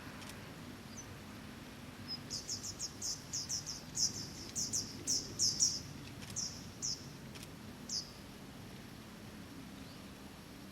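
A bird calling: a quick, uneven run of about fifteen shrill, high notes, each sliding downward, that begins about two seconds in and stops near the eight-second mark, over a faint steady low hum.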